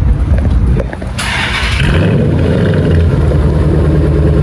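Dodge Charger R/T's 5.7 L HEMI V8 running through its exhaust, with a short hissing burst about a second in, then settling to a steady idle.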